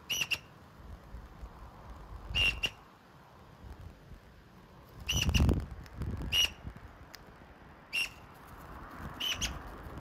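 A bird giving short, sharp single call notes, about six of them spaced one to three seconds apart, with low thuds under a couple of the calls, the loudest a little past halfway.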